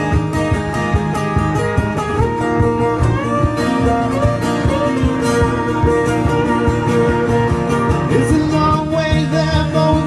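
Guitar strummed in a steady rhythm, an instrumental passage between sung sections of a song, with a wordless vocal line over it.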